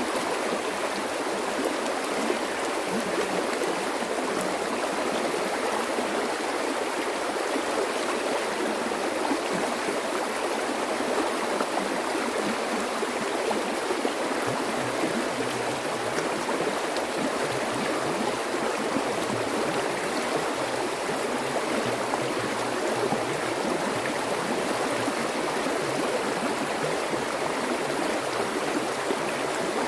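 Stream of flowing water running and gurgling steadily, a continuous even rush.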